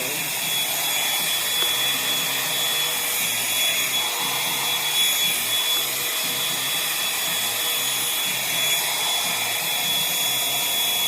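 Revlon One-Step hair dryer and volumizer hot air brush running steadily: a fan motor whirring and air rushing, with a steady high whine.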